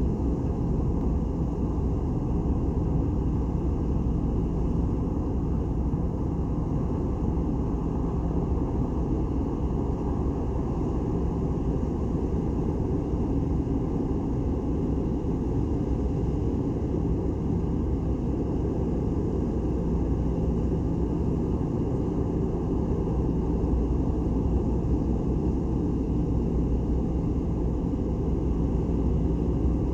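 Ferry's engines running, a steady low rumble with a constant hum that holds unchanged.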